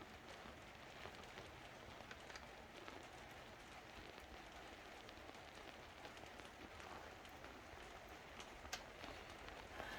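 Near silence: a faint steady hiss of room tone with a few small, light clicks, one sharper click near the end.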